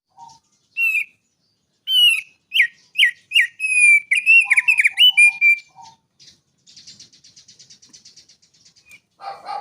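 Songbird singing: a run of sharp, high whistled chirps with quick pitch sweeps, then a softer, fast, even rattling trill lasting about two seconds, and a few lower calls near the end.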